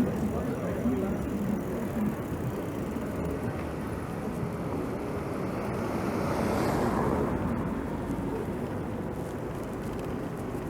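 Street traffic and wind noise heard from a moving bicycle, with a vehicle passing by that swells up and fades about seven seconds in.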